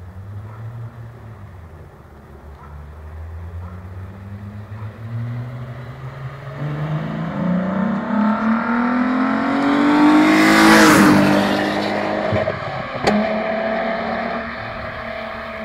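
VW Golf 2 GTI with a VR6 engine accelerating toward and past, its engine note climbing steadily in pitch to a loud peak, then dropping in pitch as it goes by and recedes. A single sharp crack comes a couple of seconds after it passes.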